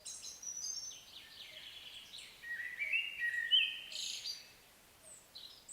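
Bird calls: a string of chirps, some sliding up or down in pitch, over a faint background hiss, dying away about four and a half seconds in.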